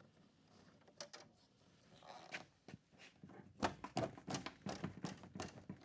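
Handling noise from wiring work: scattered light clicks and rustles, then a quick run of sharper clicks and knocks in the second half.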